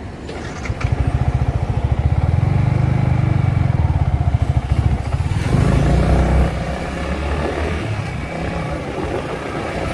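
Motorcycle engine running under throttle while riding. A pulsing low note picks up about a second in and eases off after about six seconds, with a rushing noise over it.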